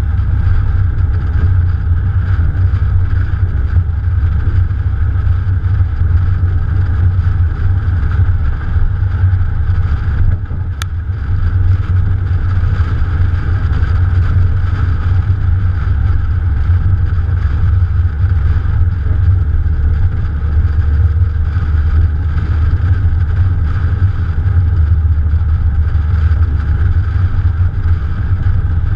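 Morgan Plus 4's Ford 2.0-litre engine and rushing wind, heard from a camera on the car's bonnet while driving: a steady low rumble that dips briefly about ten seconds in, with one sharp click.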